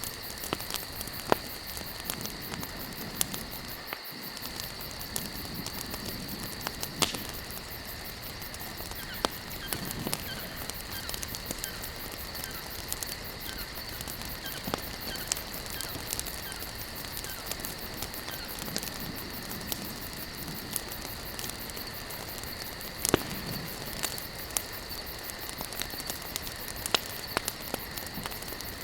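Campfire of burning logs crackling, with frequent sharp pops and a few louder snaps over a steady hiss. A steady high-pitched drone runs underneath.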